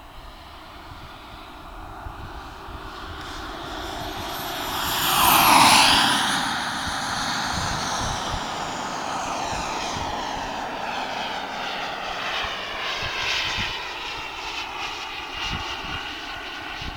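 Jet-Italia Kayman 190 model jet turbine on a radio-controlled jet making a pass: a high whine and rush that builds, peaks about five and a half seconds in with the whine dropping in pitch as it goes by, then carries on fairly loud.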